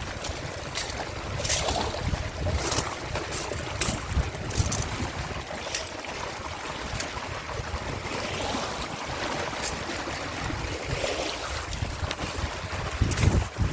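Strong wind buffeting the microphone in uneven gusts, with a rushing hiss and scattered sharp clicks.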